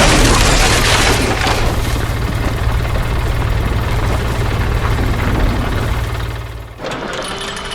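Heavy machinery's diesel engine running, with a sudden loud crash at the start that dies away over about a second and a half. Near the end the sound cuts to another machine running with a steady whine.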